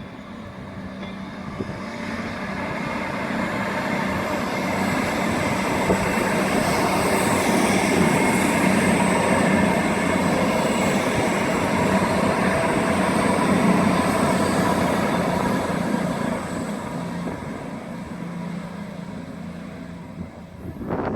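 A train passing through the station: the rumble and rush of the train builds over several seconds, is loudest through the middle, and fades again, with a steady hum and a high whine.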